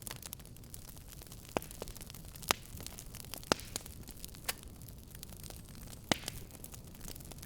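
Wood fire crackling over a steady low rumble and hiss, with about five sharp, loud pops scattered through it.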